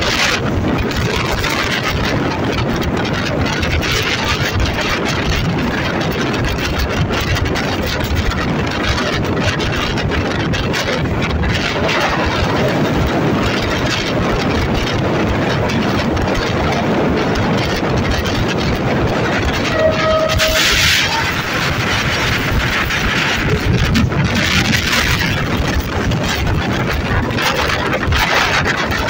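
Alsthom diesel-electric locomotive and its coach running along the track: a steady, loud rumble of engine and wheels on rail. About twenty seconds in, a short tone with a hiss stands out briefly over the running noise.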